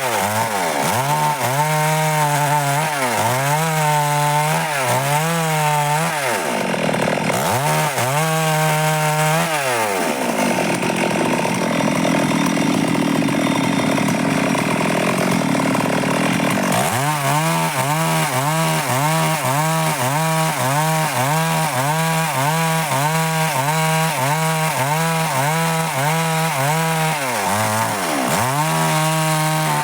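Stihl MS 382 two-stroke chainsaw cutting dry wood, its engine pitch dipping and recovering about once a second as the chain bites. In the middle there is a longer stretch of steady cutting, where the engine note is buried under the chain noise.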